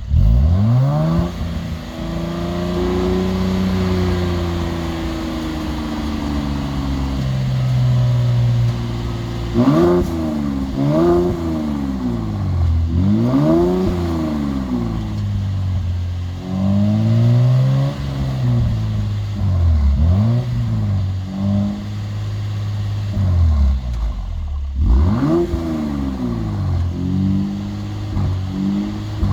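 Mercedes-AMG GLC 43's twin-turbo V6 through an aftermarket Ulter exhaust, revved over and over. One long rev is held and slowly falls away in the first several seconds, then comes a long series of quick blips, each rising and dropping back.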